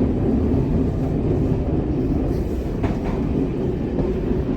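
Single-car diesel railcar coasting in top gear with no power on: a steady running rumble of engine and wheels on the rails, heard from the cab, with one sharp click about three seconds in.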